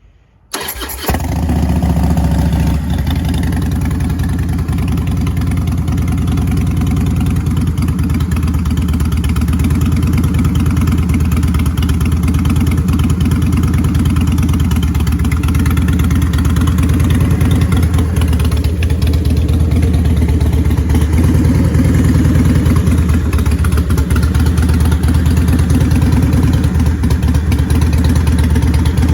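2006 Harley-Davidson Fat Boy's Twin Cam 88 V-twin, breathing through Vance & Hines Big Shots pipes with standard baffles, cranked on the starter and catching about a second in on a cold start. It then settles into a steady idle.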